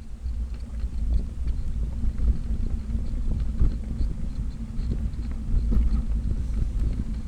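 Bicycle riding on the road: wind buffeting the microphone over a low rumble and tyre hum, with scattered rattling clicks from the bike.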